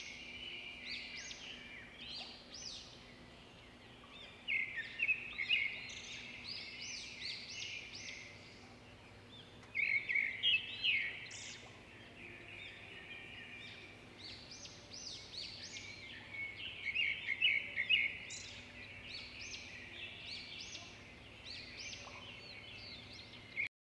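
Small birds chirping and twittering in quick, dense flurries, with louder bursts a few times and a cut-off just before the end.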